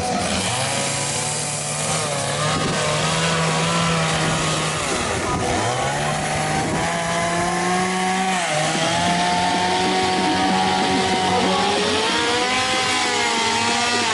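Chainsaw running and cutting wood, its engine pitch dipping and rising again about three times.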